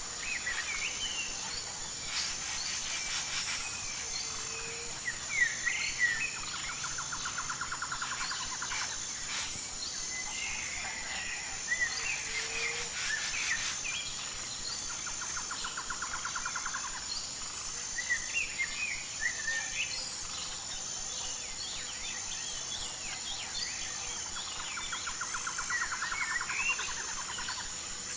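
Several songbirds chirping and calling, with a rapid trill about two seconds long heard three times, over a steady high-pitched drone of crickets or other insects.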